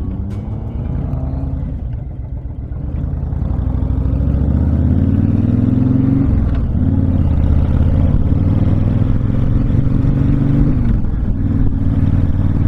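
Honda VTX1300's V-twin engine accelerating through the gears. The engine note climbs, drops at a gear change about six and a half seconds in, climbs again, and eases off near the end.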